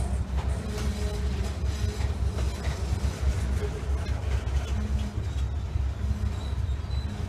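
Freight train cars rolling past: a steady heavy low rumble with the clatter of steel wheels on the rails.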